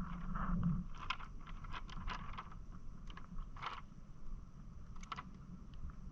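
Hobie Island sailing kayak under way: a steady low rumble of water and wind, with scattered short clicks and scrapes from the boat's fittings, the clearest about a second in, near the middle and about five seconds in.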